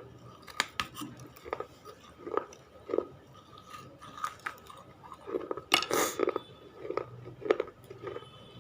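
A person biting and chewing brittle clay chips close to the microphone: irregular sharp crunches about once or twice a second, with a louder cluster of crunches about six seconds in.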